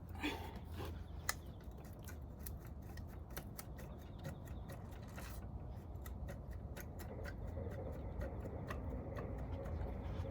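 Hand tools working on a motorcycle engine: a run of light, quick, uneven clicks and ticks over a low steady hum.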